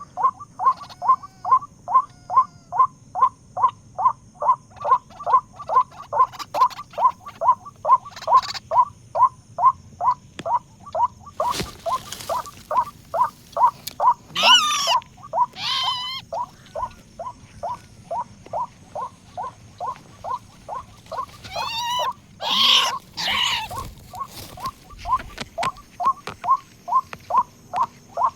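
White-breasted waterhen calling: a long, steady run of short notes, about three a second, broken twice by louder, harsher calls, about halfway through and again a few seconds later.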